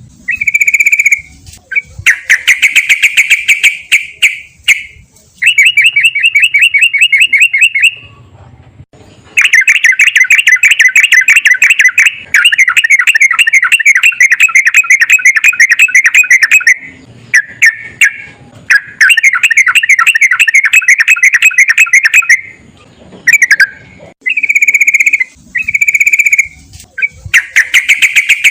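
Sooty-headed bulbul (trucukan) singing long, fast runs of rapid repeated notes, several seconds at a time, broken by short pauses.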